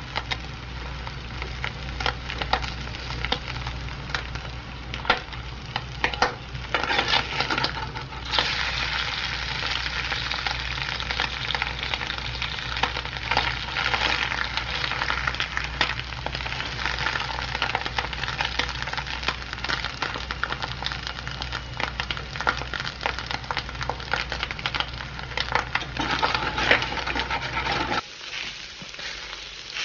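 Dense crackling and sizzling noise, many small pops over a steady hiss, with a low hum underneath that cuts out near the end.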